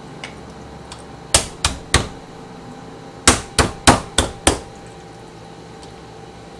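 Meat cleaver pounding butterflied raw chicken breasts to flatten them: three sharp strikes about a second and a half in, then five more in quick succession from about three seconds in.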